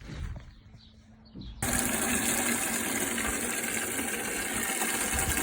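Steady rush of running water that starts abruptly about a second and a half in, after a short quiet stretch.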